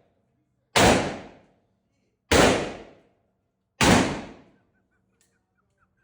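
Three shots from a Smith & Wesson 500 revolver, about a second and a half apart, each followed by a long echoing tail from the indoor range.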